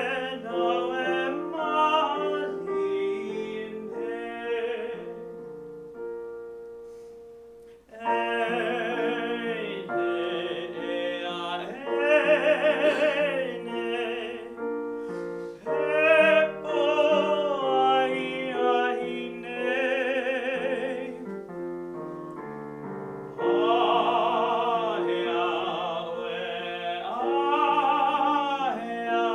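A baritone singing in Hawaiian with vibrato, accompanied by piano; the voice drops out for a few seconds near the start of the second quarter while the piano alone carries on softly, then re-enters.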